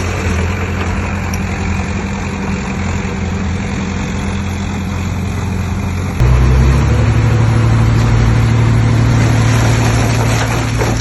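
Heavy diesel engine of earthmoving machinery running steadily; about six seconds in it gets louder and its pitch steps up, then holds.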